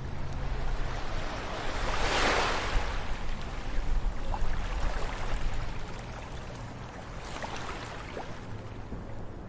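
Ocean waves on a beach: a wave breaks and washes in about two seconds in, a smaller surge follows near the end, over a low steady rumble of surf.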